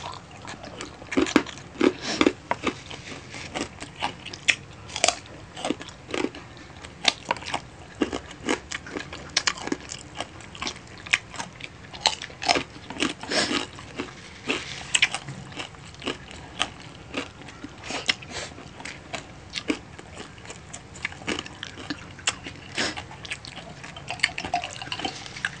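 Close-up eating sounds: irregular biting, chewing and lip-smacking as two people gnaw spicy adobo chicken feet and suck the sauce off their fingers, with short sharp clicks and smacks coming many times a second.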